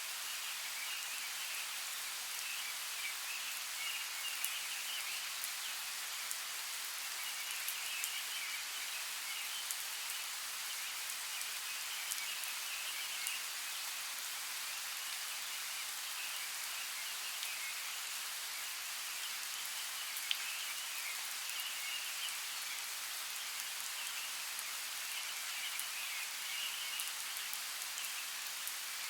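Steady rain hissing, with scattered sharper drop ticks and a higher chattering layer that swells and fades several times.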